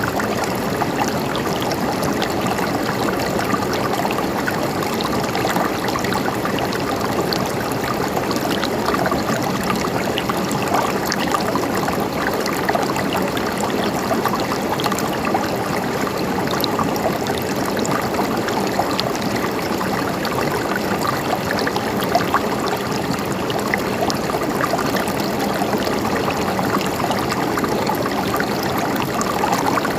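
River water flowing steadily over stones, a continuous rushing with small gurgles and splashes.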